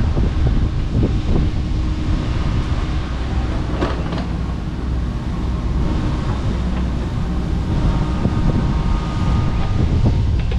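Kobelco SK85MSR 8-ton excavator's diesel engine running steadily while it works, with scattered knocks and a sharper crack about four seconds in.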